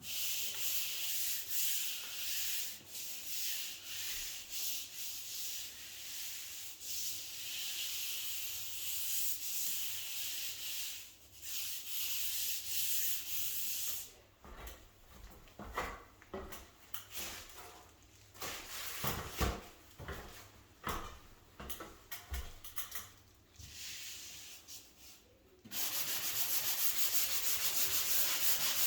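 Sanding sponge scrubbing dried joint compound on a ceiling skim-coat patch: a steady, scratchy rubbing. About fourteen seconds in it turns quieter and broken, with scattered knocks, then picks up steadily again near the end.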